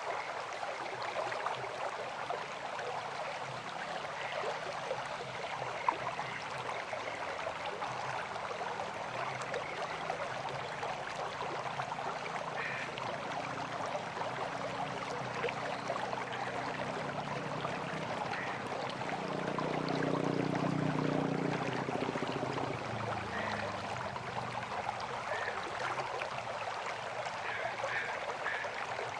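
River water flowing steadily. A low engine hum builds slowly, is loudest about two-thirds of the way through, then fades away.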